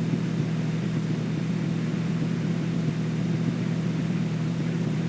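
Extra 300L's engine and propeller droning steadily in cruise flight, a constant low hum under a noise hiss.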